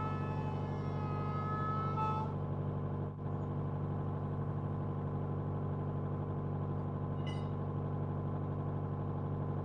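Car engine idling, heard from inside the cabin as a steady low hum. Steady high tones sound over it for the first two seconds and stop, and a brief high chirp comes near the end.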